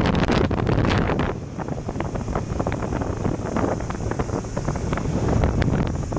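Wind buffeting the microphone of a camera on a moving motorbike. It is loud at first and eases about a second in to a lighter rumble with crackles.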